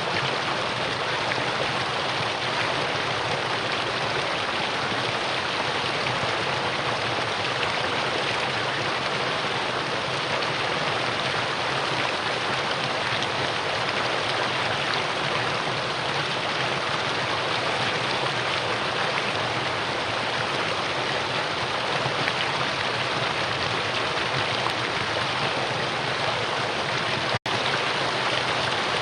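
Mountain valley stream flowing steadily, an even rush of water with a momentary dropout near the end.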